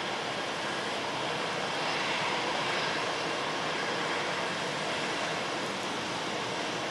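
Steady rushing noise of an Airbus A321-211 jet airliner's engines, even and unchanging with no distinct whine.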